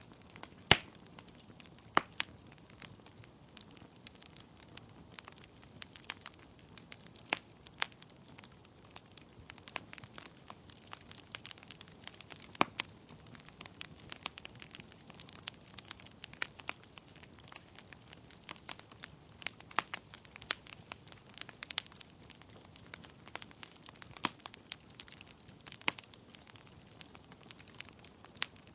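Wood fire crackling in a fireplace: burning logs give off irregular sharp pops and snaps over a faint steady hiss, with a few louder pops scattered through.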